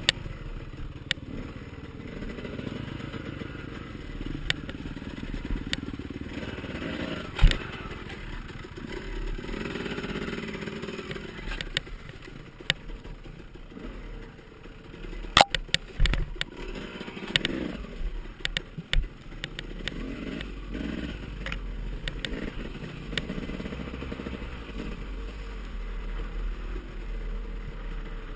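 Off-road dirt bike engines running and revving up and down, with several sharp knocks. The loudest knocks come about seven and a half and fifteen and a half seconds in.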